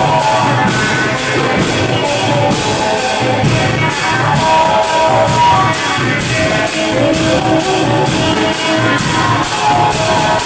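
Thai klong yao long-drum band playing: drums and percussion keep a steady beat about twice a second under a plucked-string melody.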